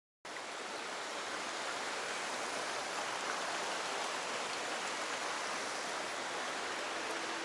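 Mountain stream rushing: a steady, even wash of flowing water that cuts in suddenly just after the start.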